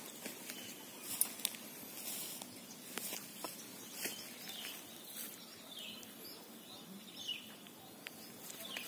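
Faint outdoor rustling with a few sharp clicks in the first half. A bird gives several short, falling chirps, spaced about a second or so apart, in the second half.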